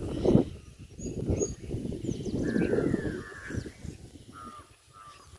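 Birds calling, with short calls that fall in pitch and a few high chirps, over uneven low background noise that fades after about three seconds.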